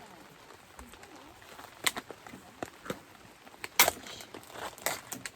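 A few sharp clicks and knocks from objects being handled, the loudest about two seconds in and again near four seconds.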